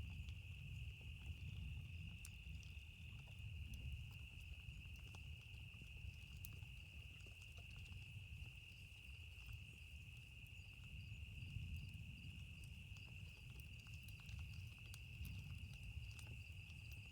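Faint campfire crackling, a few scattered pops, over a steady high-pitched insect drone and a low rumble that swells and fades.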